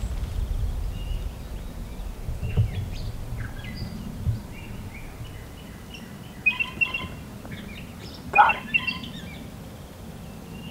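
Songbirds calling in short chirps and phrases, loudest in two clusters about six and a half and eight and a half seconds in, over a low rumble of wind on the microphone.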